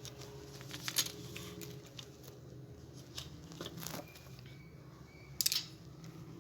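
Scattered small clicks and scrapes of a hair dryer's plastic housing and screws being handled while the screws are fitted, with sharper clicks about a second in, around four seconds and near the end.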